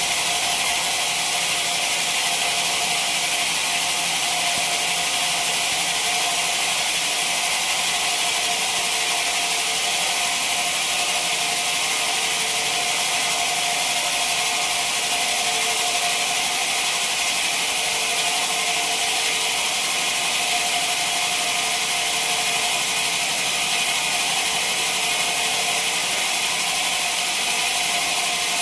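Sawmill machinery running steadily: a constant hiss with steady whining tones and no change in level.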